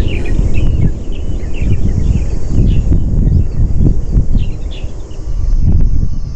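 Wind buffeting the microphone in a loud, gusty rumble, while small birds chirp over and over. A steady high hiss runs underneath and stops shortly before the end.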